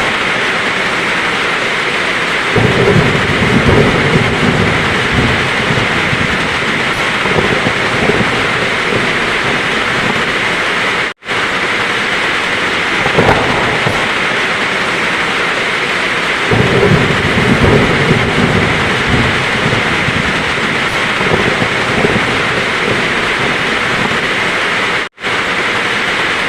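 Heavy rain falling in a steady hiss, with low thunder rumbling twice, a couple of seconds in and again past the middle. The sound cuts out for an instant twice, where a recording that repeats about every fourteen seconds is joined.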